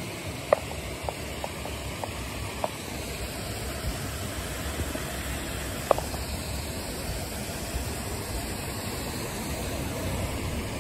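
Mountain stream rushing over rocks, a steady wash of water noise, with a few short sharp clicks.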